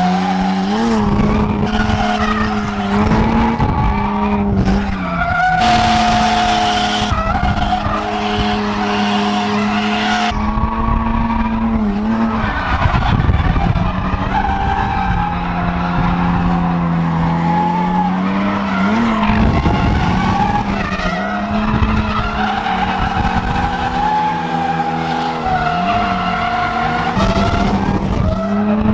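Drift car engine held high in the revs, its pitch dipping and climbing briefly every few seconds with throttle lifts, over tyres skidding as the car slides sideways through e-brake drifts. Heard from inside the cabin.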